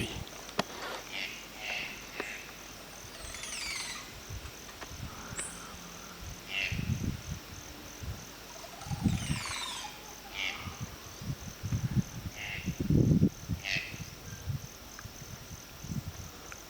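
Wild birdsong: a bird gives a cascade of quick high notes falling in pitch every few seconds, with short single call notes in between. Throughout, an insect keeps up a steady pulsing high trill. Several low dull thuds come a few times in the second half and are the loudest sounds.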